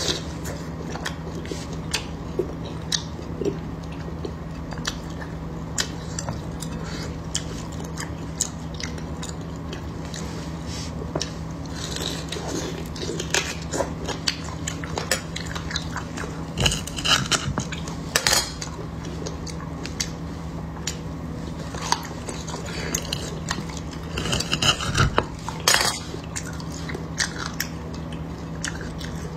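Close-miked biting and chewing of crisp grilled beef brisket fat: wet chewing with scattered crackles and sharp clicks, busiest about halfway in and again near the end. A steady low hum runs underneath.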